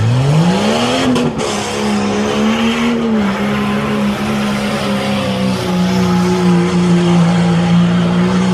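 Jeep Cherokee's engine revving hard off the line, its pitch climbing steeply over the first second, then held at high, nearly steady revs under full throttle.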